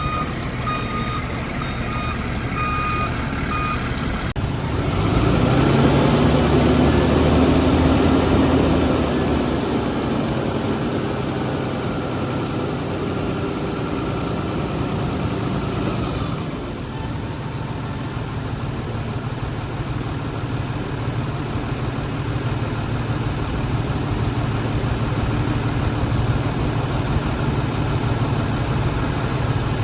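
The Cummins diesel engine of a 2004 Capacity TJ5000 yard truck is running, with its reversing alarm beeping at an even pace for the first few seconds. About four seconds in, the engine rises in pitch and gets louder for several seconds, then settles. It drops to a steady idle a little over halfway through.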